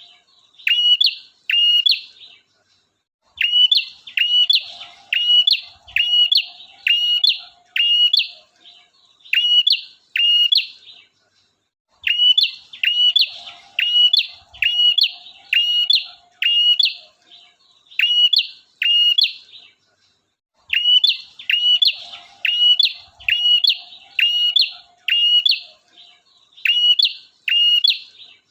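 Male prinia (prenjak) song from a bird-trapping lure recording: a sharp, loud note dropping in pitch, repeated about twice a second in runs of several seconds broken by brief pauses. Fainter, lower chatter runs along under some of the runs.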